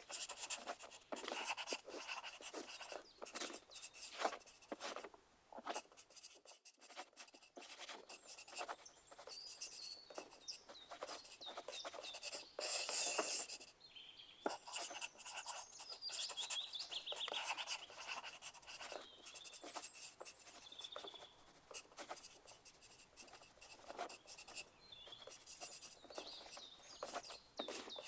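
Pencil writing on paper: irregular scratching strokes and light taps, coming in uneven runs with brief pauses, as in an exam room.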